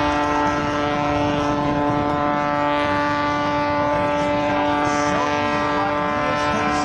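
Aerobatic plane's piston engine and propeller running at a steady, unchanging pitch while the aircraft hangs tail-down on its propeller in a hover at partial throttle.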